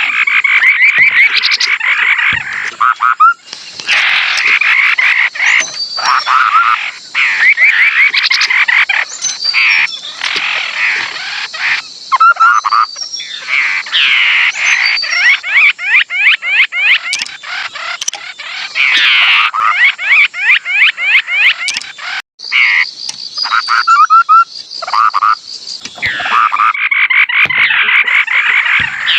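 Họa mi đất (scimitar babbler) lure-call recording: loud, rapid runs of repeated rattling notes and quick whistled sweeps in long phrases, broken by short pauses. This is the song used as a decoy call to draw wild birds of the species into a trap.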